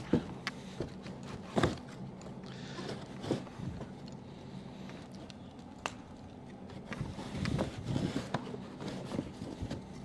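Scattered knocks, clicks and rustling from handling a boxed propane heater and its packaging, with a sharper knock about a second and a half in and a busier patch of handling near the end, over a steady low hum.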